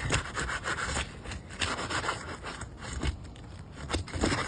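Asphalt roof shingle having its adhesive seal broken: repeated irregular scraping and rubbing strokes as a tool is worked under the shingle tab to lift it loose.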